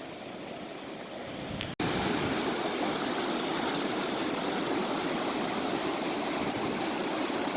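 Steady rush of falling water from a waterfall on the New River; about two seconds in it breaks off and comes back louder and fuller.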